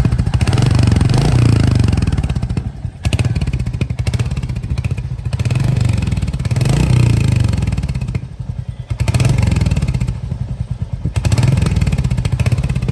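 Royal Enfield Hunter 350's single-cylinder engine through its stock exhaust, running with a thump and revved in about five swells a few seconds apart.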